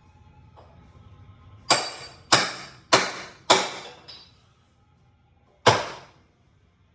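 Hammer striking metal, each blow ringing briefly: four hard blows about half a second apart, a lighter one, then a last hard blow about a second and a half later. The blows are working a nailed wall plate loose.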